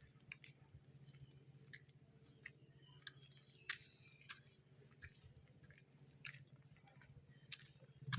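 Near silence: faint, irregular clicks over a low steady hum.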